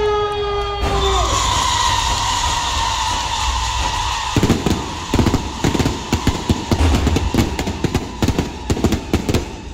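Firecrackers going off in a rapid, dense string of cracks from about four seconds in. Before that there is a hiss with a slowly falling whistle, and a held horn-like tone cuts off about a second in.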